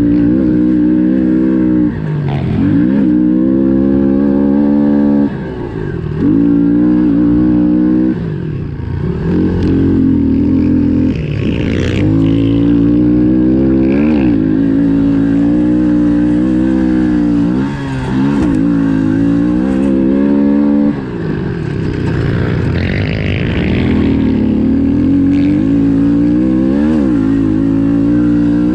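Honda CRF110F pit bike's small single-cylinder four-stroke engine being ridden hard. It revs up again and again and drops off briefly each time the throttle is chopped, every few seconds, as the bike is raced around a dirt track.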